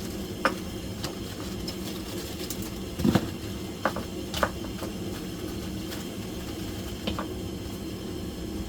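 A few short, sharp clicks and knocks over a steady low hum. The loudest is a double knock about three seconds in.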